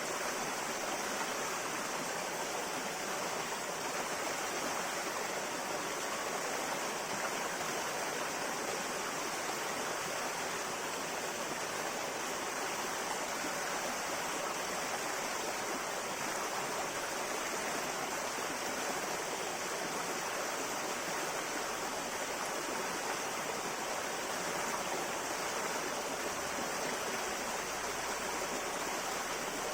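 A river running over rocks, making a steady rushing, babbling sound with no change.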